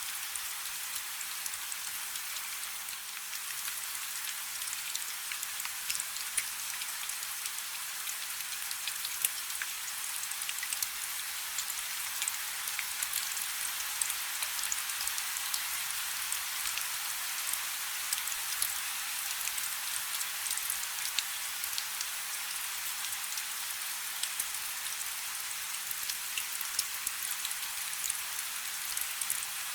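Steady rain falling on a river's surface: an even hiss of rainfall dotted with the crisp taps of individual drops.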